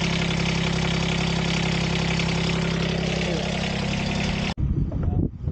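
A sailboat's small diesel engine idling steadily at an even pitch, freshly started after heating its glow plugs. The engine sound cuts off abruptly near the end, giving way to a quieter, uneven low rumble.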